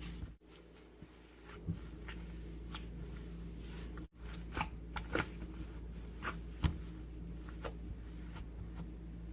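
Cloud slime being stretched and squeezed by hand, giving scattered soft crackles and small snaps, with a sharper snap a couple of times, over a steady low hum.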